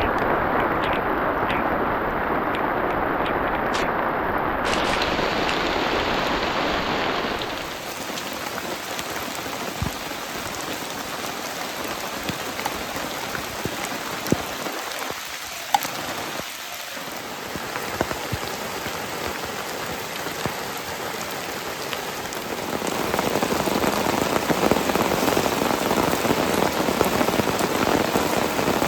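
Heavy rain falling, a dense steady patter. About eight seconds in it drops to a quieter, hissier sound, and it builds louder again near the end.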